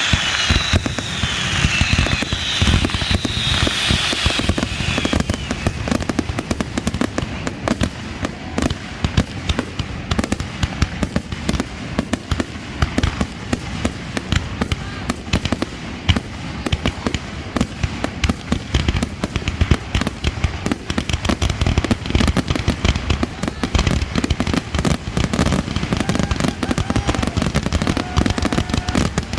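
Aerial fireworks going off in a dense, rapid barrage of bangs and crackling. Several high whistles fall in pitch during the first few seconds.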